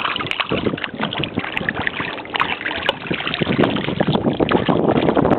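Steady, fairly loud rushing noise of wind and water aboard a small boat, uneven and full of short splashy streaks.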